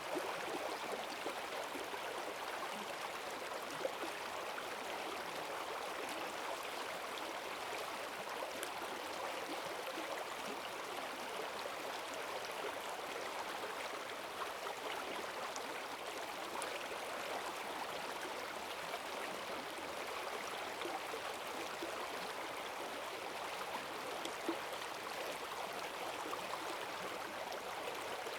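Forest stream swollen by heavy rain, rushing and gurgling steadily over its bed, with the odd small splash.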